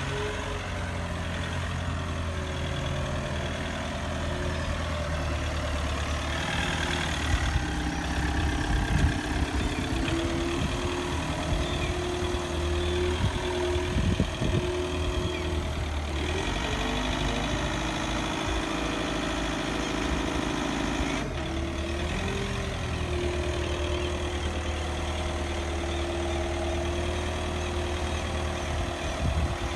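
Forklift engine running steadily, its pitch shifting up and down a few times as it works, with scattered knocks in the middle.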